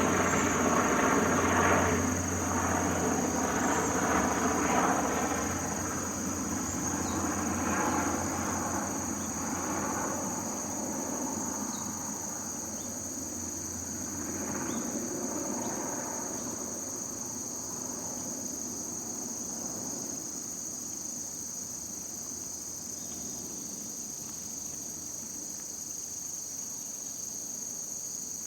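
Steady, high-pitched chorus of crickets and other insects. A distant engine fades away over the first half or so, leaving the insect chorus alone.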